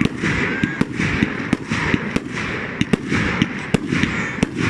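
Fireworks going off: a rapid, irregular run of sharp bangs, about a dozen in under five seconds, over a continuous hiss.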